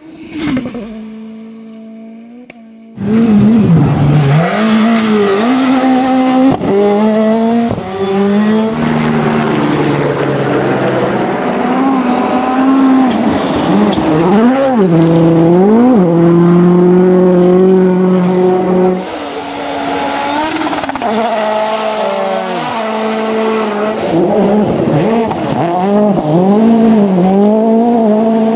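Rally car engines revving hard, their pitch climbing and dropping again and again through gear changes. A fainter car is heard for the first three seconds before a sudden switch to a loud, close one.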